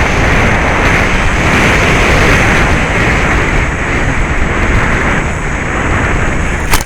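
Steady rush of wind over the onboard camera microphone of a Bixler 2 FPV plane in flight, with its brushless motor and 9x6 propeller running and a steady high whine. Near the end there is a single sharp crack, and the loud rush stops abruptly after it.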